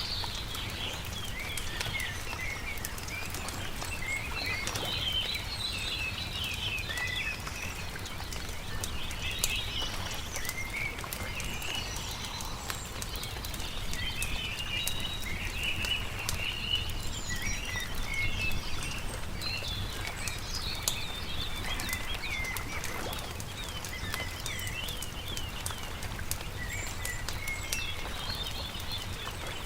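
Birds singing and chirping over a crackling campfire: a steady stream of short, high chirps and twitters, with small pops and crackles of burning wood throughout and a steady low rumble underneath.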